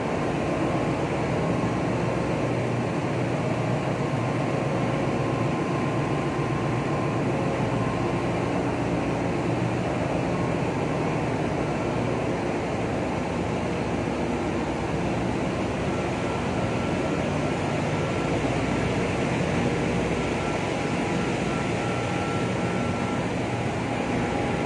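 Steady din of running machinery in a ship's engine room, an even roar with a few faint steady hums held through it.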